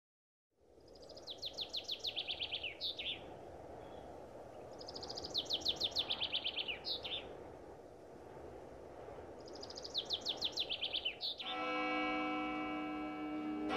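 A songbird singing three times, each song a rapid descending trill ending in a short note, about four seconds apart, over a steady outdoor ambience hiss. Near the end, sustained ambient music comes in.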